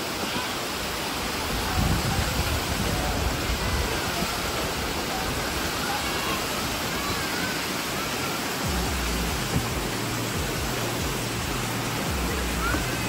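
Steady rush of flowing river water, with low rumbling at times and a few faint short chirps.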